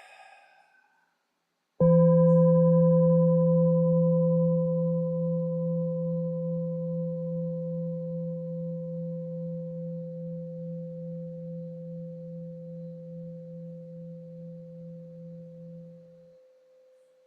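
A singing bowl struck once about two seconds in. Its deep tone and a few higher overtones ring on, fading slowly with a gentle wavering, and die away near the end.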